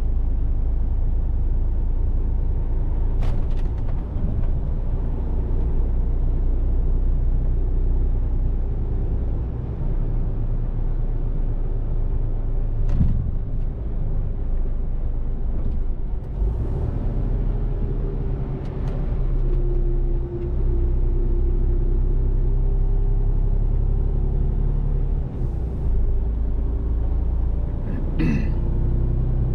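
Mercedes-Benz Actros truck running on the road, a steady low diesel rumble, with a few sharp clicks and two short hisses.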